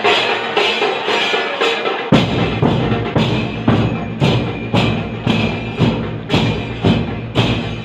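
A group of mourners doing matam, beating their chests in unison in a steady rhythm of just under two slaps a second, over a chanted lament (noha). A deep low sound joins about two seconds in.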